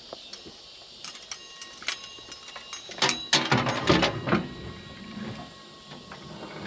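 Earthway push garden seeder clicking and rattling as it is pushed along a row sowing seed. A few single clicks, then a dense run of rattling clicks about three seconds in.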